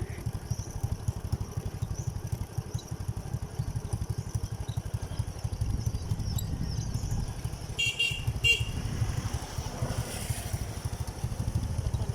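Motorcycle engine running steadily, with two short horn beeps about eight seconds in.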